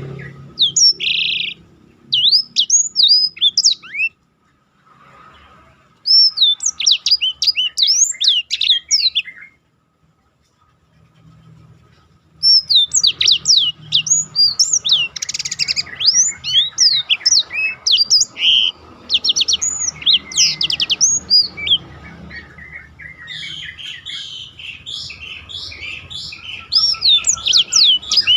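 Black-throated canary (blackthroat) singing: fast rolling phrases of quick sweeping high notes. The song comes in a few short bursts with brief pauses, then runs on almost without a break from about halfway through.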